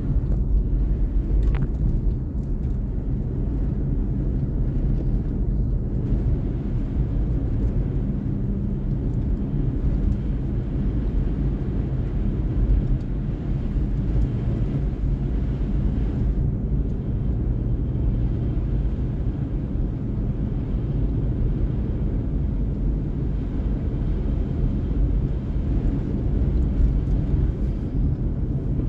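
A car's steady low engine and road rumble while driving, unchanging throughout.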